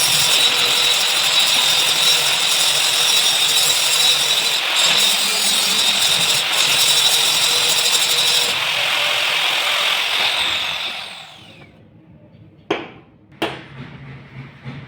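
Power tool running steadily on a workpiece for about ten seconds, then switched off and winding down, its pitch falling. Two sharp knocks follow, less than a second apart.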